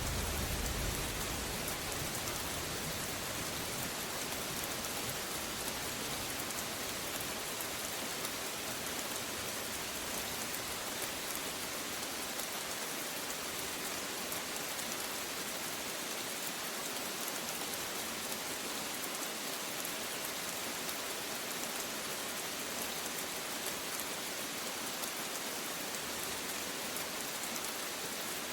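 Steady rain falling, an even hiss with scattered drop ticks. A low rumble of thunder dies away in the first second.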